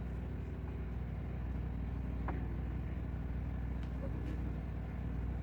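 Mini truck engine idling steadily, with a faint click or two.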